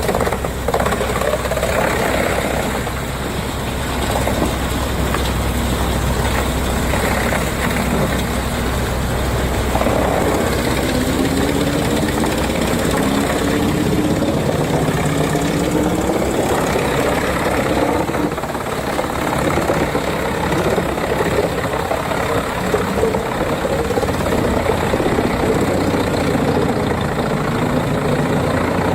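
Wood chipper running under load, its engine steady and loud with a note that slowly rises and falls, over a continuous noise of wood being chipped.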